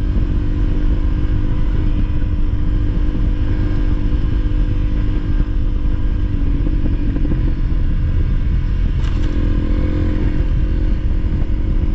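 Honda CRF300L's single-cylinder four-stroke engine running steadily while riding a dirt track. Its note drops slightly about six and a half seconds in and picks back up around nine seconds, with a brief click at that point.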